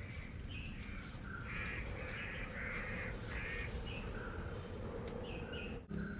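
Crows cawing: a run of short, harsh calls one after another, thickest in the middle, with a brief dropout near the end.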